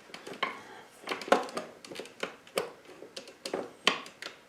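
Irregular metallic clinks and knocks from hand tools and motorcycle parts being handled, about a dozen sharp taps a few tenths of a second apart.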